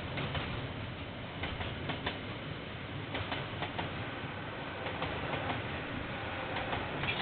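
Freight train passing, a steady rumble with scattered clicks of the wagon wheels over the rails, heard through a security camera's microphone.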